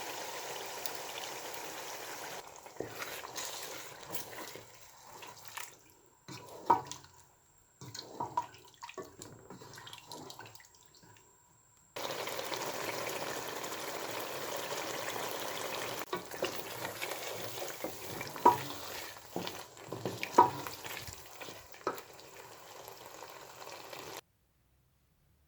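Kitchen work: a steady hiss with sharp clinks of utensils now and then, in two stretches with an abrupt break between them, and a few louder clanks.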